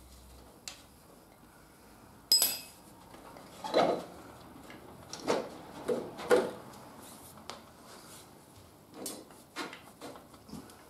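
Scattered metallic clinks and knocks as a motorcycle fork tube is handled and shifted in its triple clamp. A sharp, ringing clink about two seconds in stands out, and duller knocks follow every second or two.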